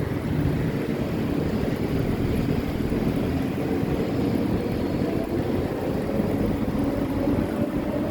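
Wind buffeting the microphone and road noise during a fast bicycle ride, with a faint hum that rises slowly in pitch in the second half.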